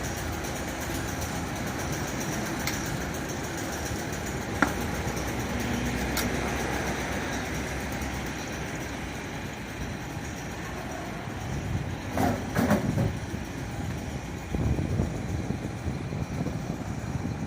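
Steady vehicle noise, with a few sharp clicks and louder, uneven rumbling in the last few seconds.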